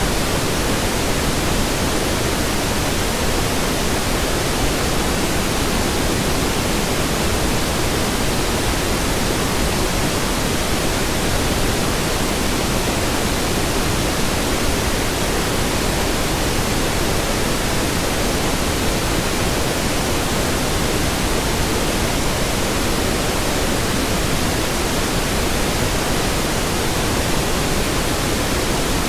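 Steady pink noise, an even hiss across all pitches with no changes.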